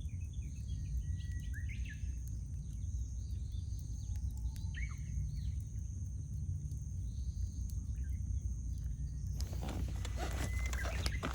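Wild birds chirping in short calls through the first half, over a steady low rumble. From about nine seconds in, a dense run of close crackles and rustles begins.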